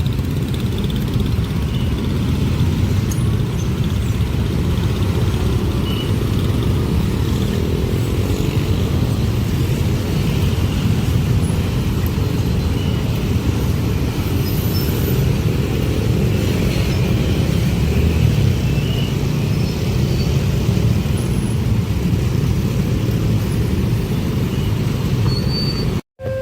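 A long passenger train rolling past at speed over a level crossing: a steady, heavy rumble of wheels on rail.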